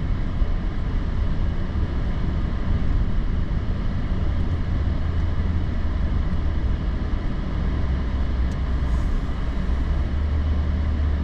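Vehicle driving on a snow-covered road, heard from inside the cabin: a steady low engine and road rumble.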